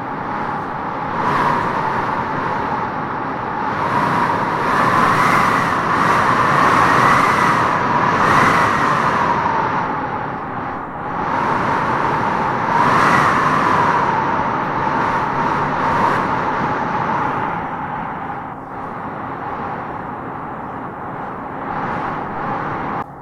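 Howling wind gusting through trees: a steady rushing with a whistling howl that swells and rises in pitch with each gust. The strongest gusts come about five to nine seconds in and again around thirteen seconds in.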